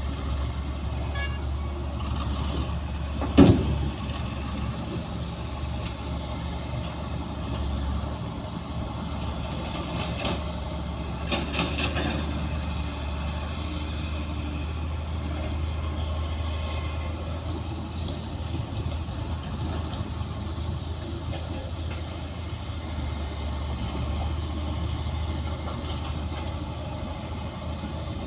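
Heavy diesel earthmoving machinery running steadily with a low engine hum. There is one sharp, loud bang about three seconds in and a few lighter knocks around ten to twelve seconds in.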